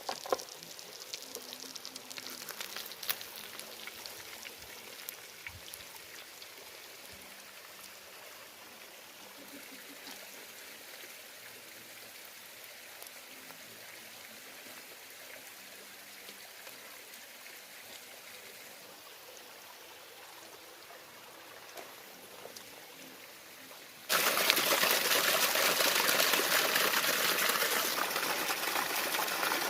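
Quiet outdoor background with a few light clicks, then an abrupt switch about 24 seconds in to loud, steady rushing water of a stream.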